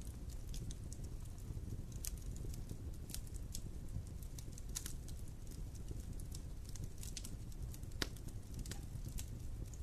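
Wood campfire burning, crackling with scattered sharp pops over a steady low rumble; one louder snap about eight seconds in.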